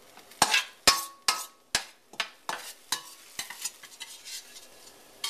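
A cooking utensil knocking and scraping against a stainless-steel wok as the last sautéed vegetables are scooped out. About eight sharp clacks, loudest in the first two seconds, fade into lighter taps, with one more knock near the end.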